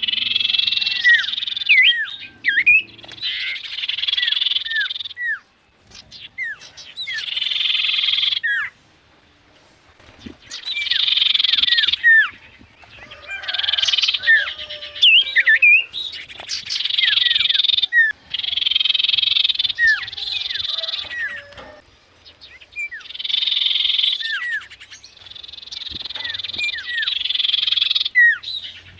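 Sirtu bird calling in repeated buzzy, chattering phrases of a second or two, laced with sharp hooked whistle notes, with short pauses between phrases.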